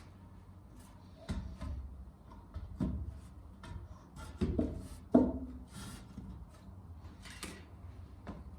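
A few irregular knocks and thuds of wood being handled on a workbench, with lighter clicks between them; the loudest knock comes about five seconds in.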